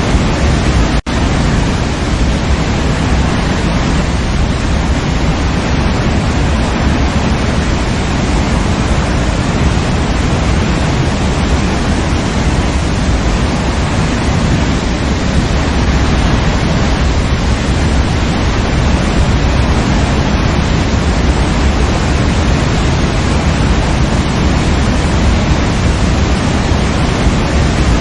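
Waterfall rushing: a steady, even roar of falling water, heavy in the low end. About a second in, the sound drops out for an instant.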